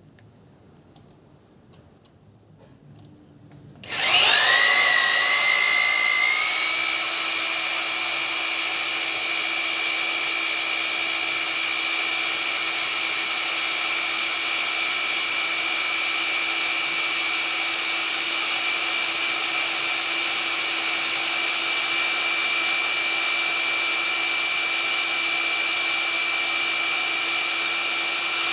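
Electric drill starting up about four seconds in, its whine rising as it spins up and then holding steady at speed.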